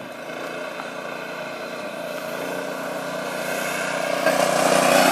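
Motovox minibike's 213cc Predator single-cylinder four-stroke engine running at light throttle at a steady pitch, growing louder toward the end.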